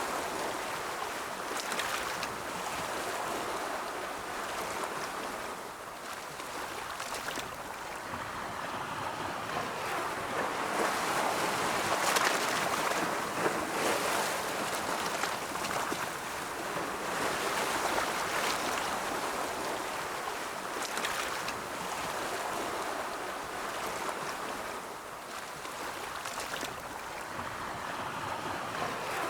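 Ocean surf: waves rolling in and breaking, a continuous wash that swells and eases every several seconds.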